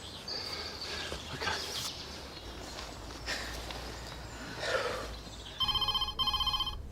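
Telephone ringing near the end with a warbling electronic trill, two short rings in quick succession in the British double-ring pattern, after faint outdoor background.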